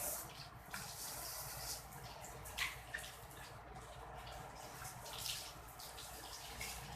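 Water running and splashing in uneven surges during a hand car wash, with a few short sharp clicks.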